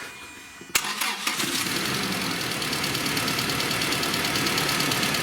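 Toyota 2TR four-cylinder petrol engine started: a sharp click under a second in, then it catches at once and runs with a fast, even pulsing. It runs rough, shaking as if one cylinder is not firing, because one fuel injector has been left unplugged.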